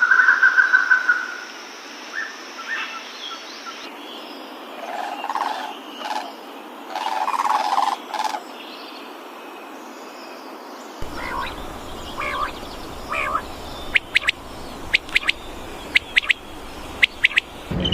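Wild animal calls, mostly birds, from several outdoor recordings cut together: a brief trill at the start, scattered calls in the middle, and a run of short, sharp chirps in the last few seconds.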